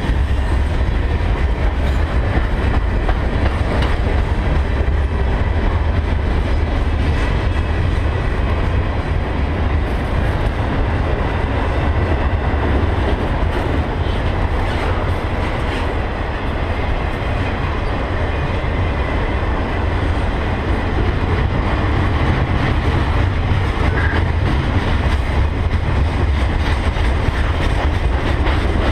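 Freight cars of a passing freight train rolling by close at hand: a steady, loud rumble of steel wheels on the rails, with some clickety-clack over the rail joints.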